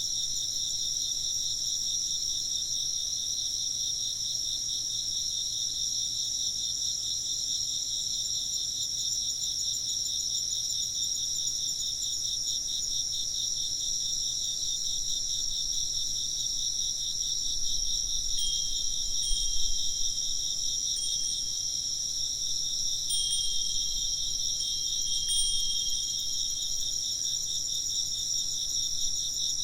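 A dense chorus of chirping insects, a steady high shimmering trill. In the second half a furin (Japanese wind bell) rings a few times, its clear high tones lingering briefly.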